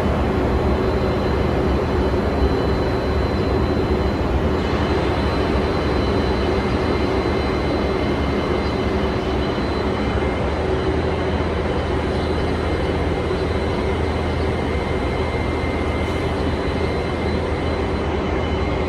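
Peterbilt 359 semi truck's diesel engine running steadily, a low, even drone that does not change in pitch.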